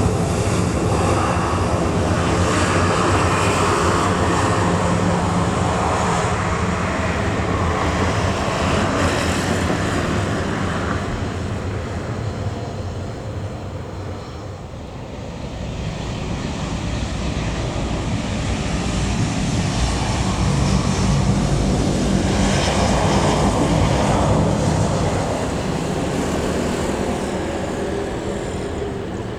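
Jet airliner engine noise from planes landing and taking off close by: a loud, steady rumble that fades about halfway through and swells again later.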